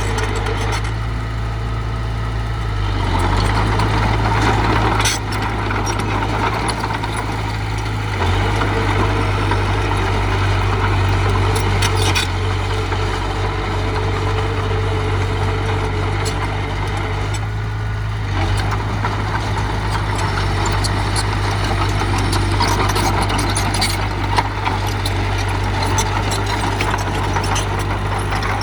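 Heavy diesel engine of earthmoving machinery running steadily, with occasional short knocks.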